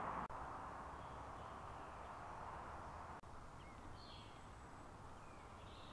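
Faint outdoor ambience: a steady background hiss, with a few short bird chirps in the second half.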